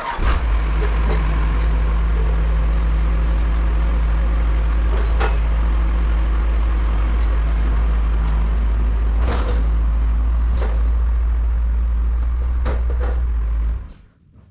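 A loud motor running at a steady speed with a constant low hum, with a few knocks over it; it starts abruptly and cuts off just before the end.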